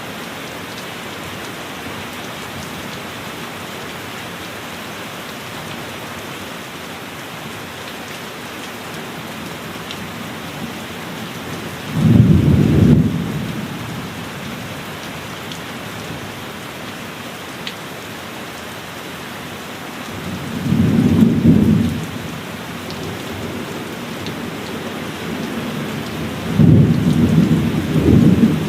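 Steady heavy rain with thunder: three low rumbles roll in over it, a sudden one about twelve seconds in, another about twenty seconds in, and a third starting near the end.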